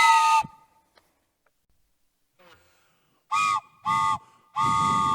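Two-note train whistle: a brief toot at the start, then silence, then about three seconds in two short toots and a longer one whose pitch sags at the end.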